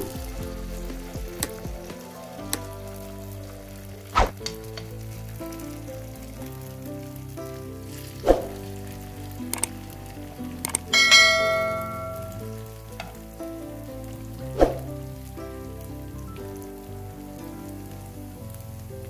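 Shredded potato and carrot fritters sizzling in hot oil in a nonstick frying pan. A metal spoon taps the pan a few times; one strike a little past halfway rings briefly.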